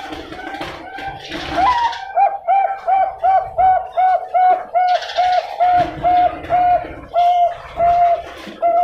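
Bangkok-type zebra dove (perkutut) singing: a rising opening note, then a long run of short, even coos at about three a second that slows slightly near the end.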